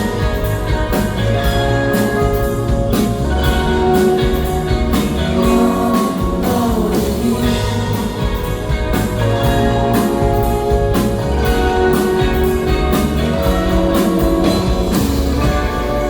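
Live indie rock band playing an instrumental passage: electric guitars and bass over a steady drum-kit beat, heard through a handheld recording from the crowd.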